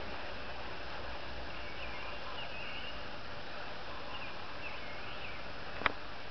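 Outdoor woodland ambience: a steady faint hiss, with faint wavering bird calls through the middle and one sharp click near the end.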